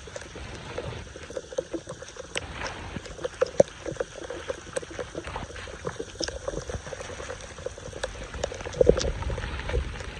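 Flood water running and splashing at a street storm drain, with many irregular sharp clicks and knocks throughout and a denser patch of splashing near the end.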